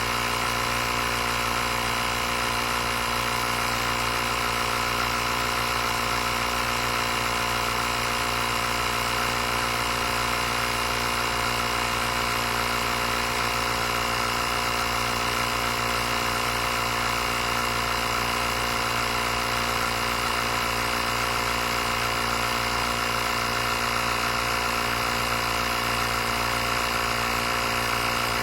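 Small electric air compressor built into a YaberAuto 150PSI jump starter, running steadily as it inflates a tyre toward its 2.1 bar set pressure. It makes an even, unchanging hum and whine.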